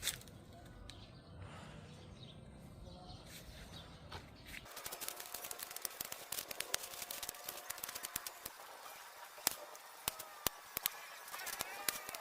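Pruning of bird of paradise plants: a low rumble with a few clicks, then after an abrupt change about halfway in, many irregular sharp clicks and crackles of stems being cut and dry leaves handled. Birds chirp faintly near the end.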